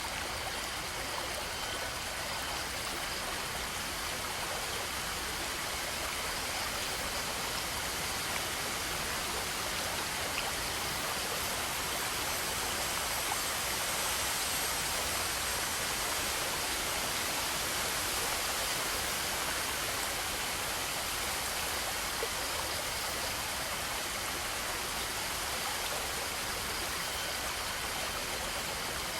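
Flowing water rushing steadily, an even hiss with no breaks or separate events.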